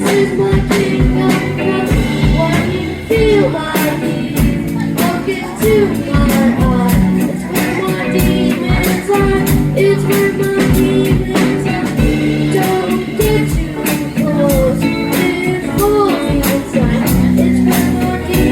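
Band playing a rock song: drums keep a steady beat under guitar and singing.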